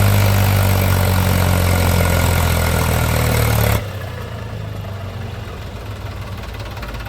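Tractor engine running loudly and steadily with a deep hum, then cutting suddenly, a little under four seconds in, to a quieter, low, chugging engine sound.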